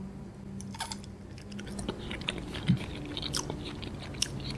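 Biting off and chewing a block of date-milk agar-agar jelly close to the microphone: faint, scattered wet mouth clicks.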